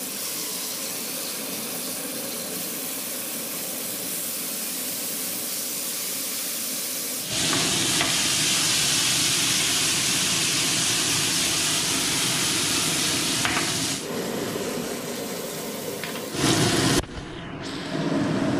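Food sizzling in hot mustard oil in a pan, a steady hiss that turns louder about seven seconds in and eases off again around fourteen seconds, with a brief louder burst near the end.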